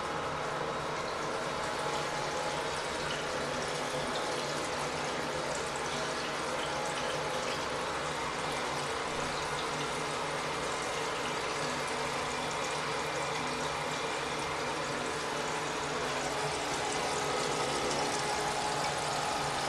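1985 Crane Radcliffe toilet tank refilling: water hissing steadily through the fill valve into the tank.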